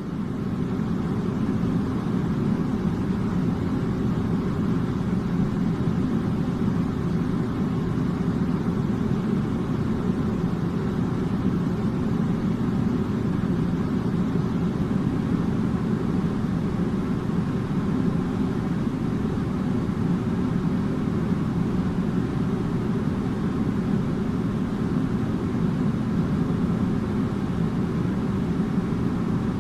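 Air conditioner running steadily: a constant low hum and rush of air, fading up over the first second and then unchanging.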